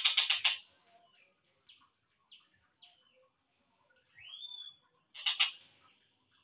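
Slowed-down tengkek buto kingfisher calls. A loud, rapid rattling series ends about half a second in, followed by faint scattered chirps and an upswept whistle about four seconds in. A short loud burst of the rattle comes just after five seconds.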